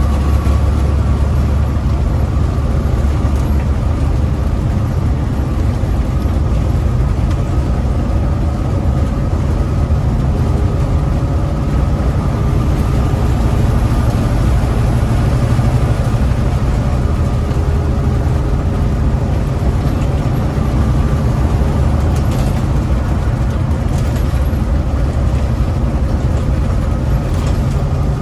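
Big-rig truck's diesel engine and road noise heard from inside the cab while driving: a steady, loud low drone.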